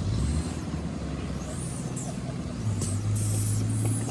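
7½ in gauge ride-on miniature locomotive running, with a steady low engine drone that grows louder about two-thirds of the way through and brief high-pitched squeals over it.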